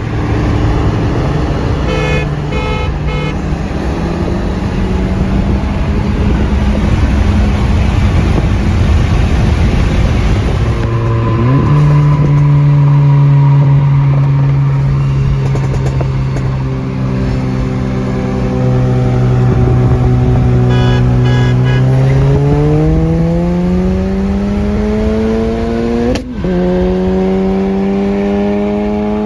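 Car engine running at a steady speed, then revs climbing hard under acceleration, cut briefly by a quick upshift near the end before climbing again. A short run of high beeps sounds twice.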